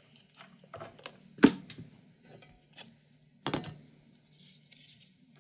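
Scattered sharp clicks and knocks, the loudest about one and a half seconds in and another about three and a half seconds in, as the parts of a computer power supply and its cooling fan are handled and fitted back together.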